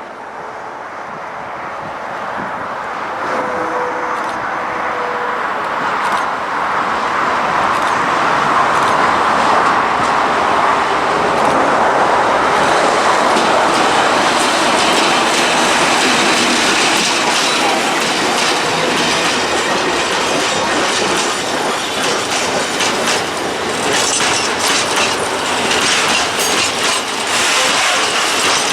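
T448p diesel locomotive passing at the head of a train of empty self-discharging hopper wagons: it grows louder over the first several seconds, then the wagons rattle past with rapid clicking of wheels over the rail joints.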